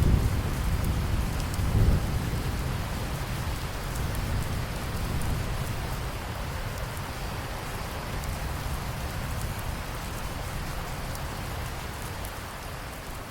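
Steady rain falling, with a low roll of thunder at the start that is loudest about two seconds in and then fades away while the rain continues.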